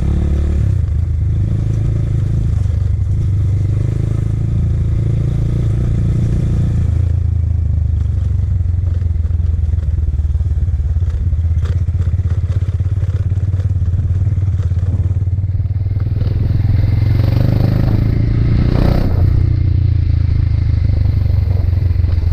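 Motorcycle engine running as the bike is ridden. Its tone drops about seven seconds in, it grows louder from about sixteen seconds in, and it rises briefly near the end.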